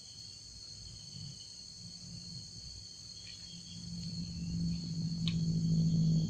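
Crickets and other night insects trilling steadily. About two thirds of the way in, a low steady drone fades in and grows louder.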